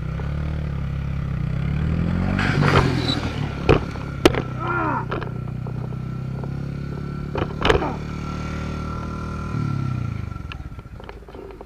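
A vehicle engine running, its pitch rising about two seconds in, then holding steady and dropping away near the end. Several sharp knocks or bangs cut through it, the loudest around the middle.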